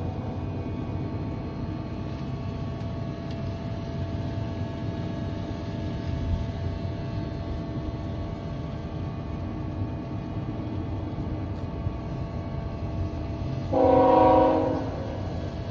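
Train rumbling steadily, low and constant; about fourteen seconds in, the locomotive horn sounds one blast lasting a little over a second.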